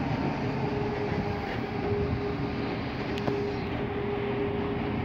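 A diesel-hauled ballast work train of loaded hopper cars rolling slowly: a steady rumble with a steady tone running through it, and one sharp click about three seconds in.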